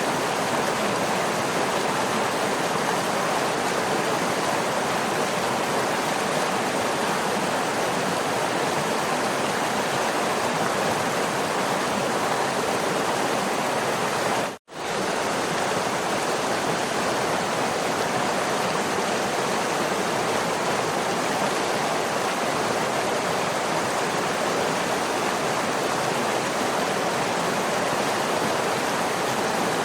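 Waterfall: a steady, dense rush of falling water. It drops out for an instant near the middle, then resumes unchanged.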